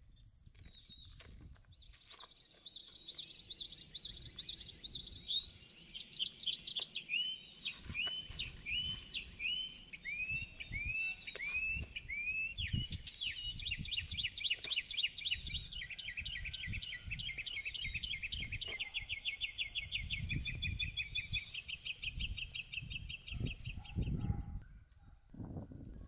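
A songbird singing a long, varied phrase of high notes: a string of short repeated notes about three a second, then slower down-slurred whistles, then a fast trill that stops about two seconds before the end. Soft low knocks and rustles sound faintly underneath.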